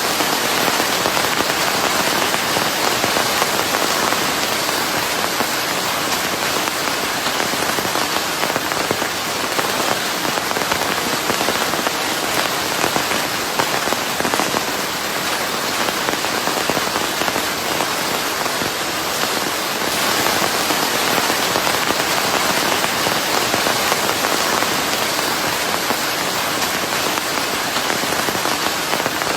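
Steady rain falling on a surface, a dense even patter of drops blended with a constant hiss of white noise.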